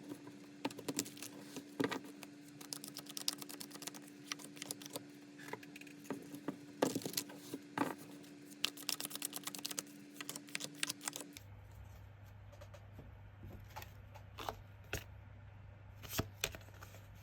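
Tarot cards being handled and shuffled: quick runs of light clicks and snaps of card stock, thinning out after about eleven seconds.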